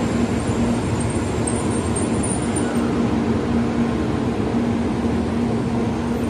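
Tokaido Shinkansen bullet train running slowly past the platform, a steady rumble with a low electric hum.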